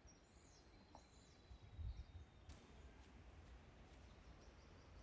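Faint outdoor ambience: a few small-bird chirps and a thin high whistle in the first couple of seconds over a soft steady hiss, with a low dull rumble about two seconds in.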